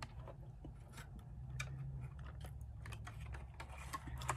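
A person chewing a mouthful of honey-filled dark chocolate with the mouth near the microphone: scattered small, irregular wet mouth clicks and smacks, faint, over a low steady hum.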